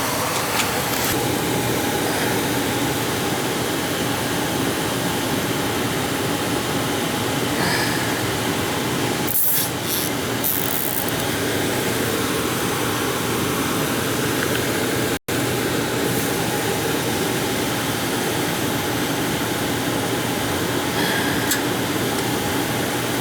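Gas furnace blower fan running with a steady rush of air, with a few faint clicks of handling; the sound drops out for an instant about two-thirds of the way through.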